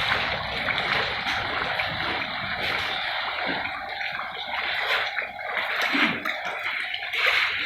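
Heavy rain and running floodwater: a steady rushing, splashing hiss of water.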